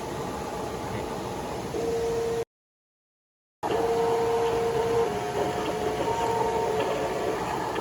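Small electric motors and gearboxes of radio-controlled model construction vehicles running with a steady whine over a hiss, shifting slightly in pitch. The sound cuts out completely for about a second early on, then resumes.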